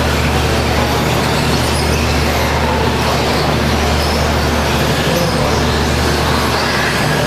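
Several radio-controlled stock-class trucks racing, a steady mix of motor whine and tire noise over a constant low hum.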